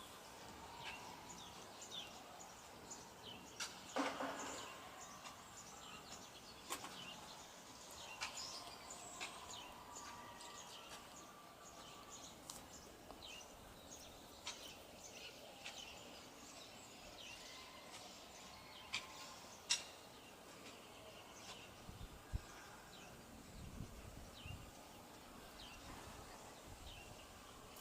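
Birds chirping with many short, high calls over a faint, steady outdoor background. A few sharp clicks stand out, the loudest about four seconds in, and there is a brief low rumble later on.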